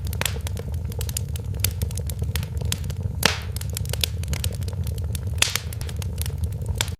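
Wood fire crackling in a fireplace: irregular sharp pops and snaps over a steady low rumble, with one louder pop about three seconds in.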